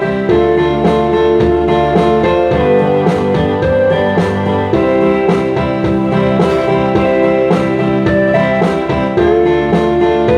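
Guitar strummed in a steady rhythm, playing a country-folk song, with chords held and ringing between strokes.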